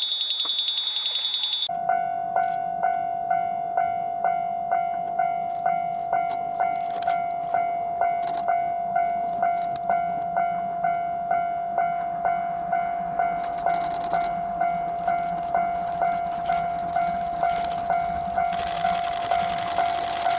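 Japanese railway level-crossing warning alarm ringing, a steady clanging tone repeating about twice a second. A different, higher-pitched pulsing tone sounds in the first couple of seconds before it.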